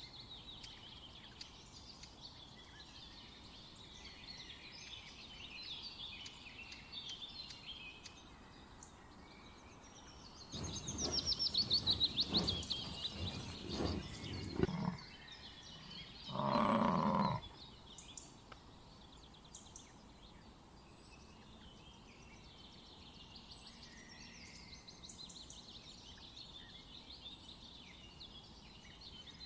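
Birds singing and chirping throughout. A louder animal calls in the middle: a run of rough pulses with a falling trill, then one drawn-out pitched call lasting about a second.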